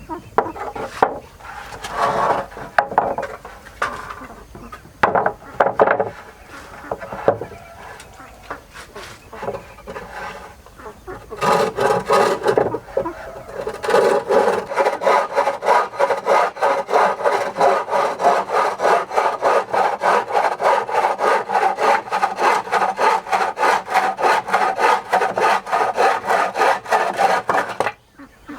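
A tool worked back and forth on wood. First come irregular knocks and scrapes; then, about halfway in, a fast, even stroking rhythm of about five strokes a second takes over and stops abruptly shortly before the end.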